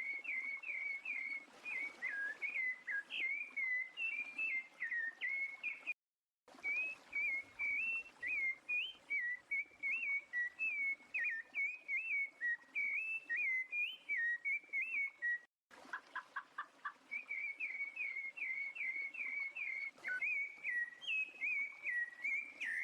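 Rufous-bellied thrush (sabiá-laranjeira) singing: a continuous run of quick whistled notes that glide up and down around one pitch. The song breaks off in two abrupt silent gaps, about six and fifteen seconds in.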